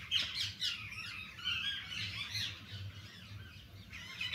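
Birds calling in the background: a busy run of short chirps and squawks that bend in pitch. A faint steady low hum lies underneath.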